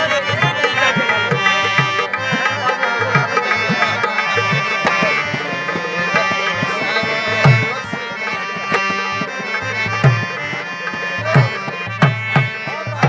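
An instrumental passage of Rajasthani folk devotional music: a harmonium holds steady chords over a hand drum beating a brisk rhythm, with deep strokes that bend in pitch.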